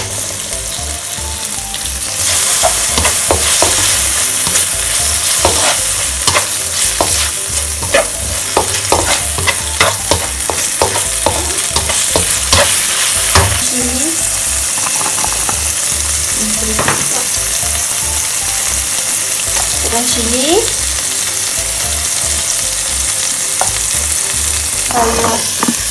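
Onions, garlic and blended chilli paste sizzling in hot oil in a wok while a spatula stirs and scrapes them, with frequent short scraping knocks. The sizzle gets louder about two seconds in.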